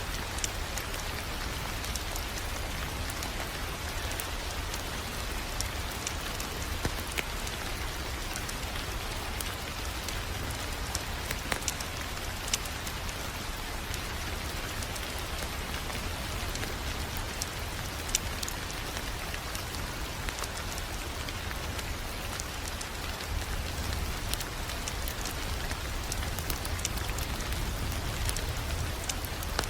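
Wood fire crackling in a fireplace: a steady hiss and low rumble with scattered sharp pops, a few louder ones about 12 and 18 seconds in.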